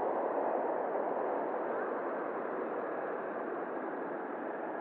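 Steady hiss of an air-traffic-control radio channel between transmissions, easing off slightly toward the end.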